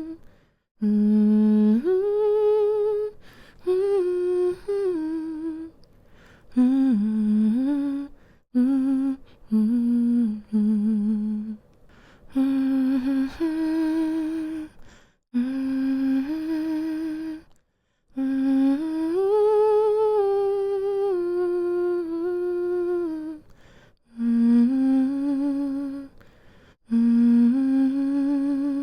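A woman humming a slow, soothing lullaby-like melody to put a baby to sleep, in phrases of a few held notes with short pauses for breath between them.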